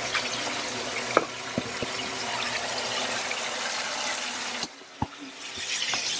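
Food cooking on a stovetop: a steady sizzle and bubble from a boiling pot and chicken frying in hot oil, with a few light clicks. The sizzle dips briefly about three-quarters through, then comes back.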